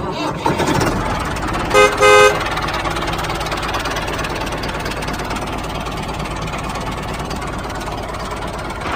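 A tractor engine running steadily, with two short horn toots about two seconds in.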